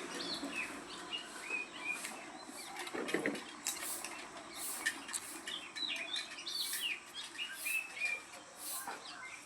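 A flock of small birds chirping and twittering, many short overlapping calls at once, with brief rustles and wing flutters among them and a short low rustle about three seconds in.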